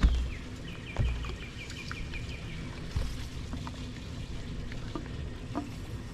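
A bird calling a quick run of about ten short, repeated high notes, about a second in, over a steady outdoor hiss. There are a few dull low thumps, the loudest at the very start.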